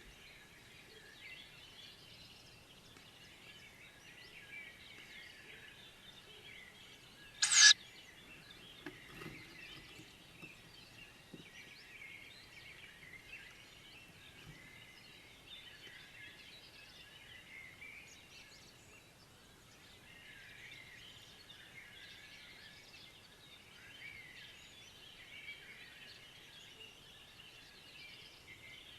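Faint, steady twittering of small birds, broken about seven seconds in by a single short, loud, raspy tawny owl call, the loudest sound here.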